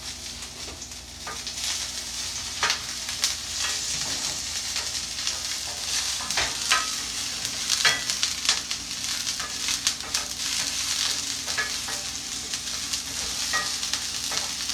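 Chopped scallions, garlic and ginger sizzling in hot olive oil in a stainless steel pan, with a steady hiss. A wooden spatula stirs them, scraping and knocking against the pan every second or so.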